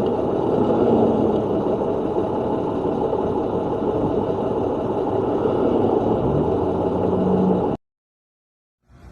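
Car engine and road noise, with the engine note rising for about a second near the end, then cutting off suddenly.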